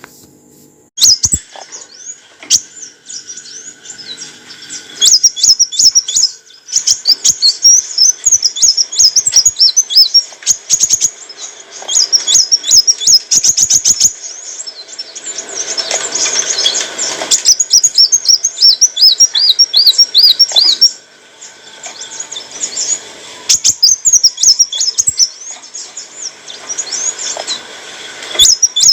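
Kolibri wulung sunbird singing: rapid runs of high, thin chirps and trills repeated in quick bursts, with a brief pause about two-thirds of the way in.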